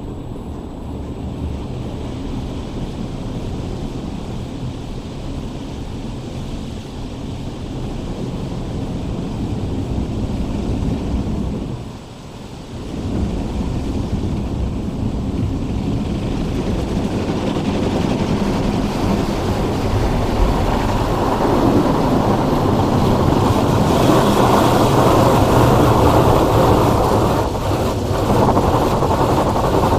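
Automatic car wash machinery running: a steady rushing wash noise that dips briefly about twelve seconds in, then grows louder and brighter through the second half.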